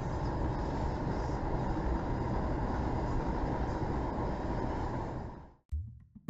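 Steady noise of a moving vehicle and the road, picked up by a dashcam, cutting off suddenly about five and a half seconds in.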